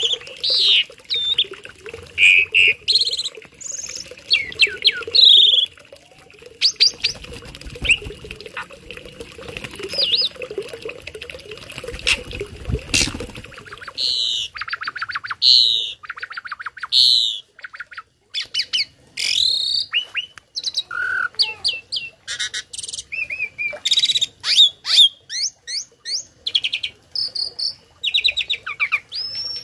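Tame jalak starling singing a loud, varied song of short whistles, chirps, sweeping notes and rapid-fire runs of repeated notes, the mimicked fills that keepers use to train other songbirds.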